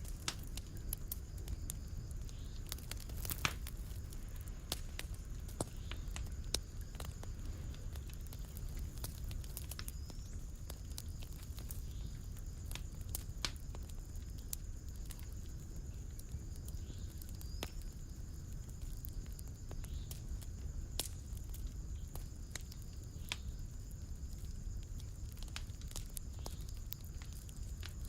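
Wood fire burning in a fireplace: irregular crackles and sharper pops over a low, steady rumble.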